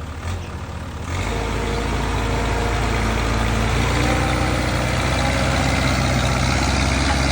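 Diesel engine of a loader running, revving up about a second in and then held steady at high revs under load.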